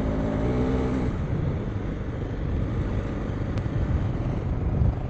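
KTM 390 Enduro R's single-cylinder engine running steadily while the motorcycle is ridden, with a low rumble of wind over the microphone.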